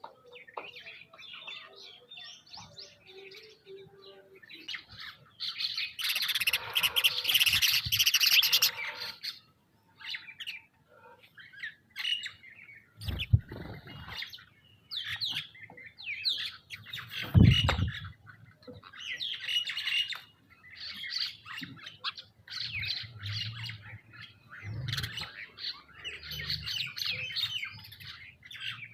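Birds chirping and calling over and over, with a harsh, noisy stretch of calling about six seconds in and two dull low thumps about halfway through.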